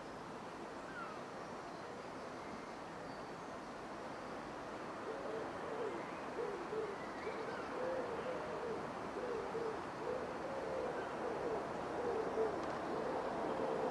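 A pigeon cooing, a low call repeated phrase after phrase, starting about five seconds in. Faint small-bird chirps are scattered over a background hush.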